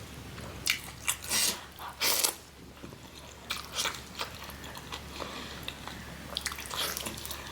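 A person chewing and biting mutton curry close to the microphone: short, irregular eating noises, loudest in the first couple of seconds, with another cluster near the end.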